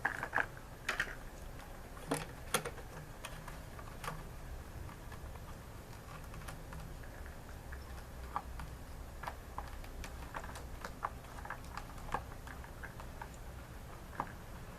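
A plastic zip tie being fastened by hand, its ratchet giving irregular single clicks, mixed with light taps from parts being handled.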